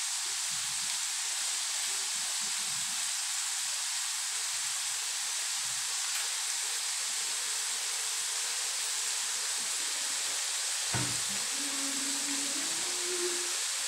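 String beans and ground meat sizzling steadily in a wok over a gas flame, with a single click about eleven seconds in.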